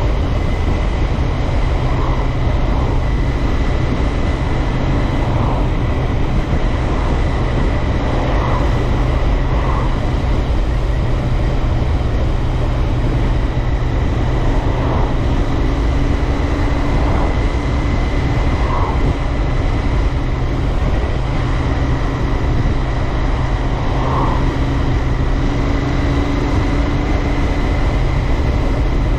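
Royal Enfield Interceptor 650's 648 cc parallel-twin engine and exhaust running at a steady cruise, mixed with wind and road rush on the microphone.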